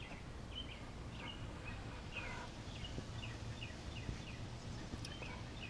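A small bird chirping faintly and repeatedly, short falling calls about twice a second, over a low steady background hum.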